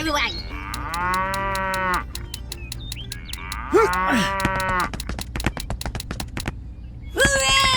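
Cows mooing: one long moo about half a second in, another around four seconds in, and a third starting near the end. A steady low hum runs under them, with rapid, regular clicking between the calls.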